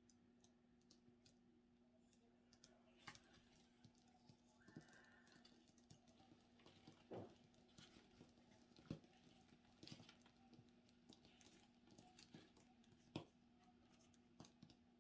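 Near silence: a faint steady low hum with scattered, irregular faint light clicks and taps.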